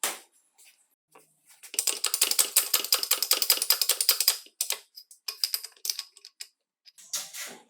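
Rapid mechanical clicking from hand work on the grinder's parts: a sharp click at the start, then a run of about ten clicks a second for nearly three seconds, and shorter runs after it.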